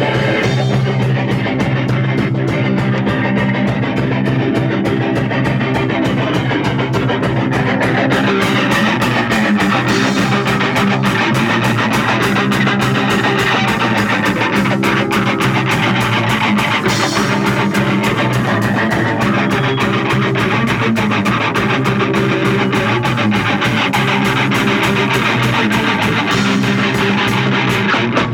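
A live punk rock band playing loudly, with electric guitar and a drum kit.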